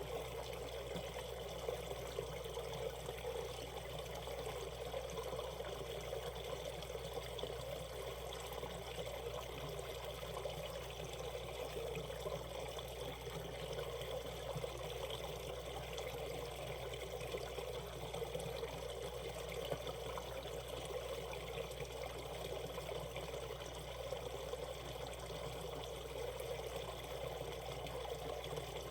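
Shallow mountain stream running over rocks, a steady babble of flowing water.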